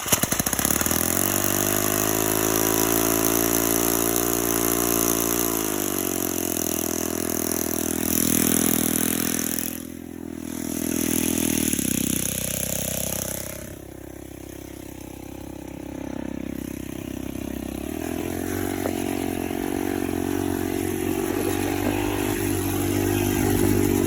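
Two-stroke weed-eater engine of a friction-drive bicycle catching on a cold start and running. Its speed holds high, drops about six seconds in, sags twice more, then picks up again near the end.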